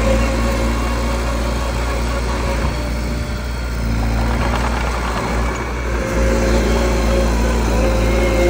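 Small bulldozer's diesel engine running steadily; for a few seconds in the middle its even note breaks up and roughens, then settles back.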